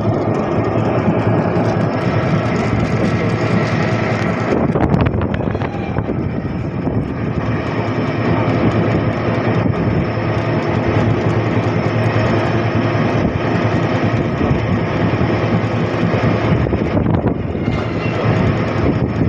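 Auto-rickshaw ride: the vehicle's motor and road noise run steadily, with a burst of rattling clicks about five seconds in.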